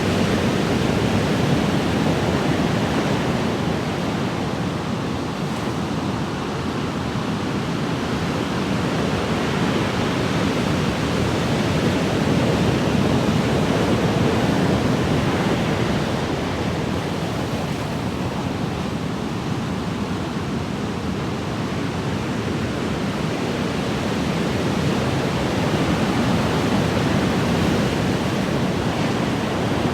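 Ocean waves breaking and washing in a continuous surf, rising and falling slowly in loudness every twelve seconds or so.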